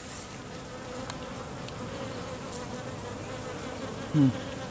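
Honeybees buzzing steadily around an open hive during a frame inspection. About four seconds in there is one brief, louder buzz that falls in pitch.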